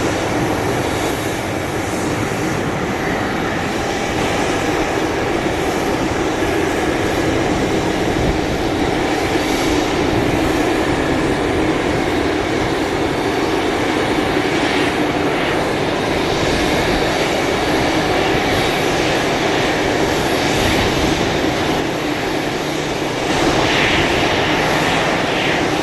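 A loud, steady engine drone without breaks.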